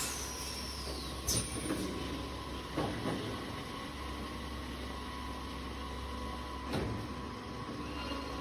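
Automatic copper tube end forming and flattening machine running with a steady hum, broken by several sharp clunks and brief hisses at uneven intervals as it works the tube ends.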